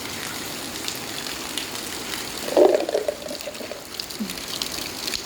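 Light rain falling, with water trickling and pouring and scattered drips. A brief louder sound about halfway through.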